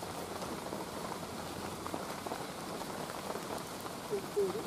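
Steady rain falling on forest foliage, an even hiss with faint scattered drip ticks. A short wavering pitched sound rises above it near the end.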